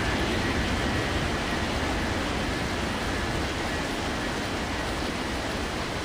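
Airliner taking off in heavy rain: a steady, even rush of engine, air and rain noise, slowly getting quieter.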